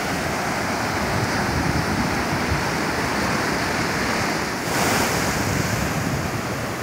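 Pacific Ocean surf washing onto a beach, a steady rush of breaking waves with a louder wave surging in about five seconds in, and wind buffeting the microphone.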